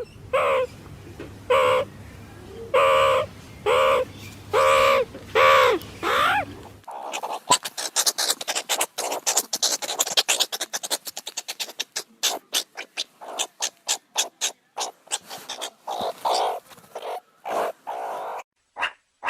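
Meerkat calls: a series of about eight short calls that fall in pitch, then from about seven seconds in a fast, dense run of chirps and chatter that thins into separate, spaced calls near the end.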